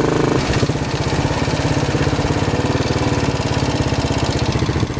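Royal Enfield Bullet 500's single-cylinder four-stroke engine running on the move. About half a second in, its smooth, steady note gives way to a slower beat of separate, distinct firing pulses.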